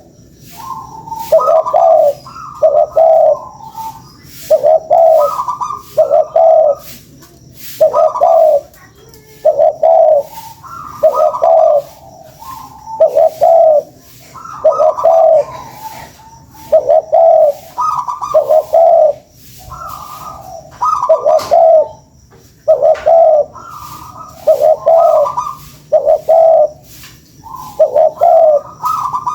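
Spotted dove (tekukur) cooing over and over, each loud phrase a higher coo stepping down to lower ones, repeating about every one and a half to two seconds: the cooing used as a lure call to draw and provoke other tekukur.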